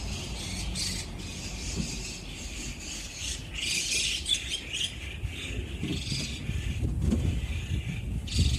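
Many small birds chirping and twittering, busiest about halfway through, over a low rumble.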